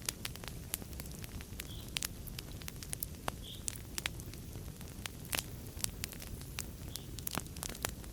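Wood fire crackling in a fireplace: frequent sharp, irregular pops and snaps over a steady low rumble of burning flames, with one louder pop a little past halfway.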